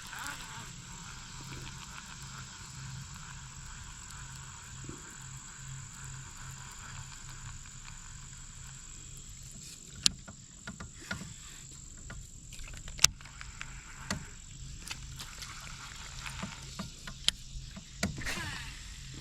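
Frogs and insects calling in a steady chorus, with a thin high insect tone running throughout. From about halfway in, a string of sharp clicks and knocks cuts through, the loudest of them a few seconds apart.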